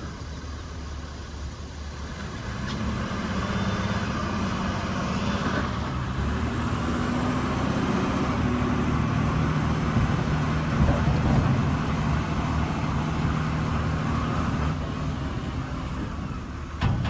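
Diesel engine of a Volvo A40G articulated dump truck running, getting louder a couple of seconds in and then holding steady, with a short sharp knock near the end.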